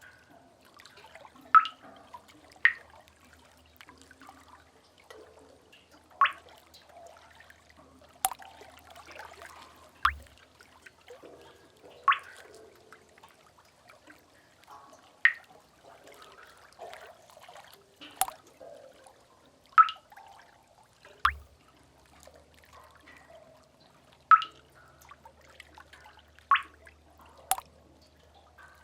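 Water drops dripping in a cave, about a dozen sharp plinks at uneven intervals of one to three seconds, over a faint trickling wash of water.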